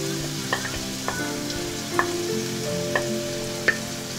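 Grated pointed gourd sizzling as it hits hot oil in a kadai, a steady hiss broken by several sharp clicks about a second apart.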